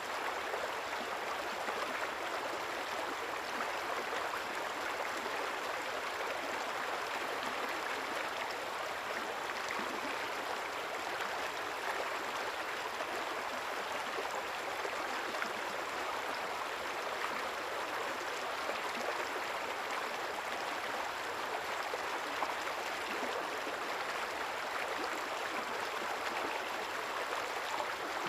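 River water flowing steadily, a continuous even rush with light gurgling.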